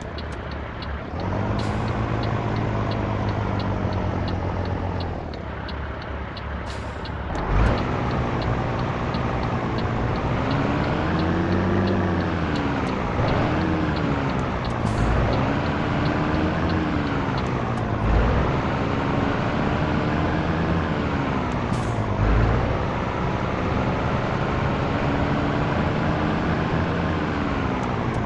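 Scania T113 truck's six-cylinder diesel engine running under way, its revs climbing and dropping several times. A light regular ticking runs through the first half, and a few short thumps come now and then.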